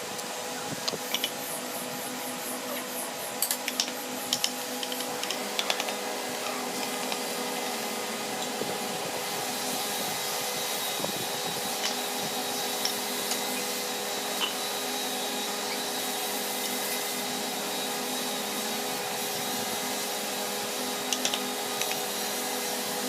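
A power tool or dust extractor running steadily with a constant hum, with scattered sharp clicks and taps in the first few seconds and again near the end.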